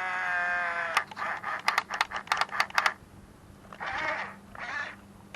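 Electric motor of a 1/18 scale Huina 1520 RC bulldozer whining steadily as it works the shovel to dump a load; the whine sags slightly and stops about a second in. A quick run of about a dozen sharp clicks and rattles follows, then two short whirs of the motor near the end.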